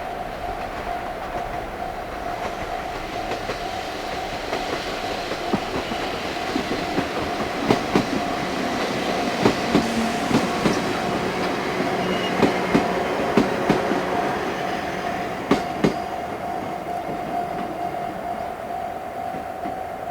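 A Chichibu Railway train passing over a level crossing, its wheels clicking in pairs, louder in the middle of the passage. The crossing's warning bell rings steadily throughout.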